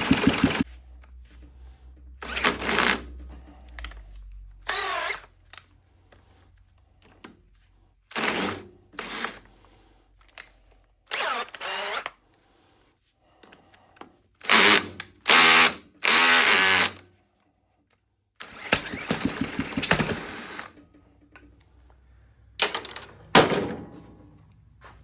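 A small single-cylinder engine runs for about half a second and then cuts out. It is followed by a cordless drill run in several short bursts of a second or two against the engine, with the motor whining as it spins.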